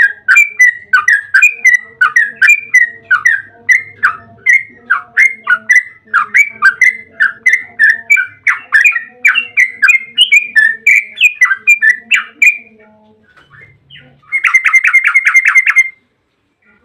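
Yellow-vented bulbul (trucukan) singing a long run of quick, chattering phrases, about three notes a second, then after a short pause a fast, even trill near the end.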